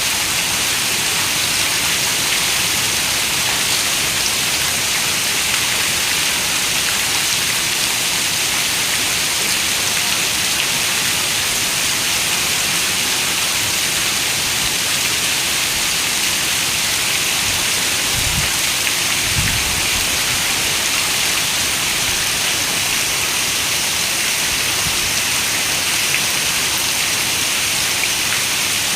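Heavy rain falling steadily on a window as an even hiss. About two-thirds of the way through come two brief low thumps.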